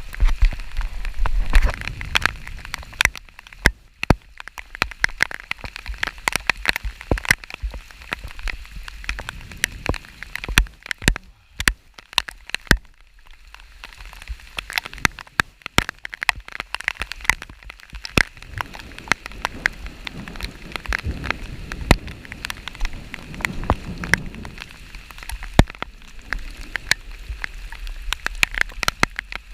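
Rain falling steadily, with many irregular sharp taps of individual drops striking near the microphone. A low rumble sounds in the first two seconds.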